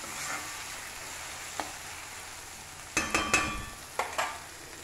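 Chopped spring onions sizzling as they fry in an iron kadai, with a steady hiss, while being stirred; the stirring utensil knocks against the pan in a quick cluster of ringing metallic clanks about three seconds in and twice more a second later.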